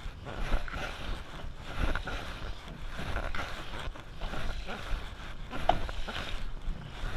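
Wind buffeting the microphone over the wash of water around a canoe out in the surf, an uneven low rumble with no clear strokes or splashes.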